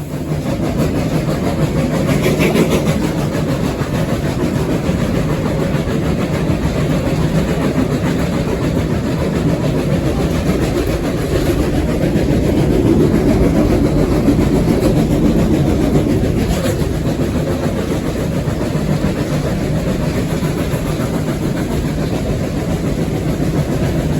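Steam locomotive heard from inside its cab: a steady, loud mechanical rumble, with a few faint brief knocks.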